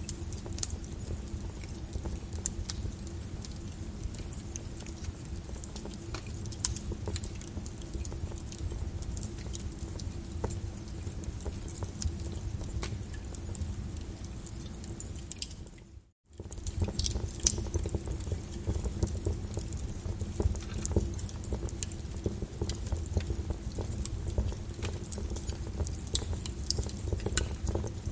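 Wood fire crackling in a fireplace: a steady low rumble under frequent sharp pops and snaps. About halfway through, the sound drops out for a moment and then resumes.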